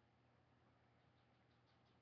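Near silence: room tone with a faint steady low hum, and a quick run of about six faint high chirps in the second half.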